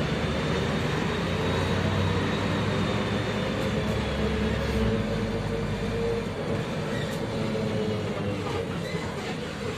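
Cabin noise of a MAZ-105 articulated city bus on the move: steady drivetrain and road rumble with a faint whine running through it. The deep low rumble drops off about five seconds in.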